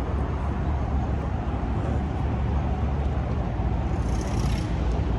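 Steady low rumble of car engines and road traffic, with a brief hiss about four seconds in.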